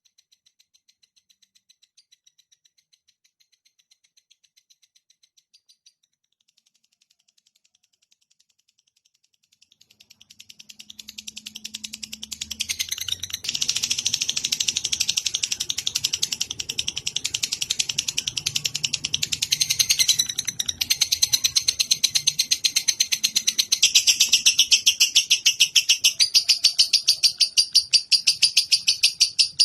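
Lovebird chattering in a long, fast, even run of high chirps (the 'ngekek' song). It is faint at first, swells about ten seconds in, and carries on loud without a break.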